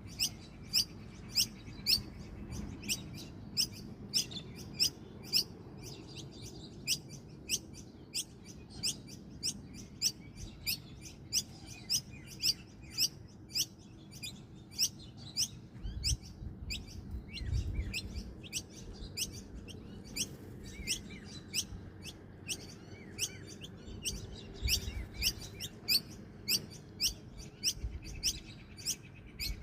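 A bird chirping over and over: short, high, sharp chirps about two a second, with a few low thumps in between.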